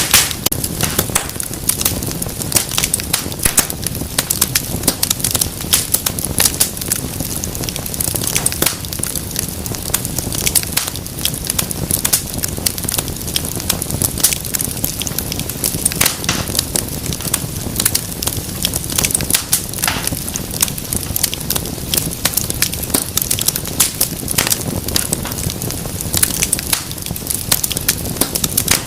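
Wood fire crackling steadily in a fireplace: a constant low rush of flame with dense, irregular snaps and pops.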